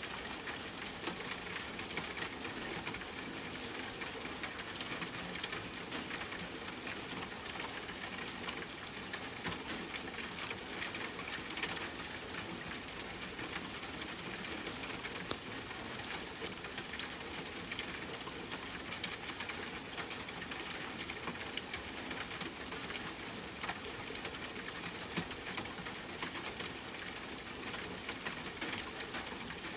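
Steady rain falling, with many small drops ticking on a hard surface.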